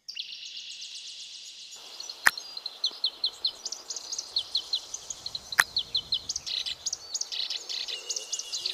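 Small birds chirping and tweeting, many short quick chirps repeated over and over, with two sharp clicks about three seconds apart standing out above them.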